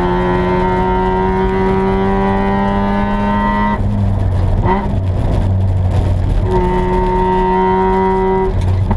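1986 Mazda RX-7's 13B rotary engine heard from inside the stripped race cabin, pulling hard with its pitch slowly rising. About four seconds in the throttle comes off, with a brief blip, and the engine pulls again steadily before lifting once more near the end.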